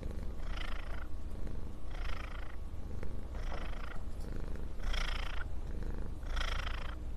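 A cat purring close to the microphone: a steady low rumble with a breathy rasp about every second and a half as it breathes in and out.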